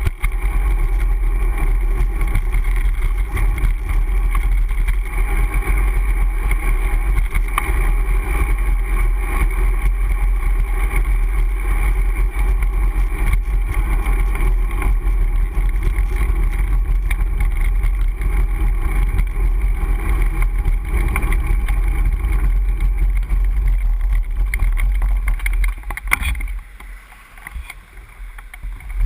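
Riding noise from a Brompton folding bicycle picked up by a GoPro on the bike: steady, heavy wind and road rumble with a faint hum of a few steady tones above it. It falls away sharply near the end for a few seconds, then picks up again.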